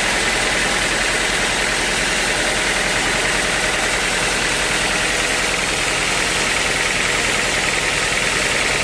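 A sawmill's engine running steadily at an even pitch.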